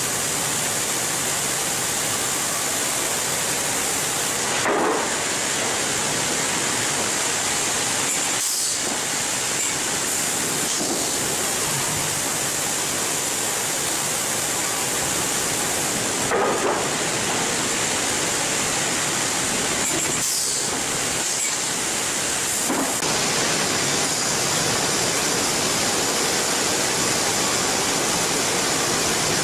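Steady, loud sawmill machinery noise running throughout, with a few brief whines rising through it.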